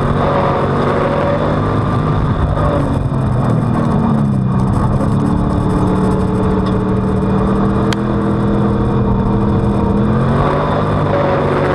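Street stock race car's V8 engine heard on board under racing throttle. The engine note drops a few seconds in as the driver lifts, holds lower for several seconds, then climbs again near the end as he gets back on the gas.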